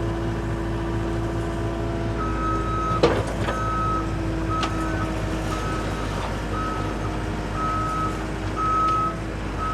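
Case TR320 compact track loader running and reversing, its backup alarm starting about two seconds in and beeping at one steady pitch about once a second over the engine. A single sharp clank comes about three seconds in.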